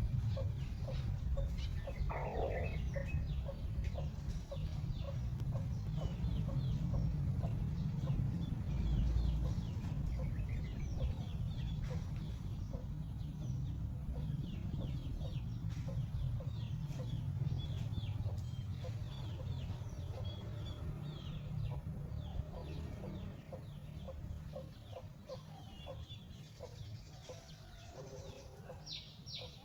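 Chickens clucking in short, scattered calls over a steady low rumble, getting quieter toward the end.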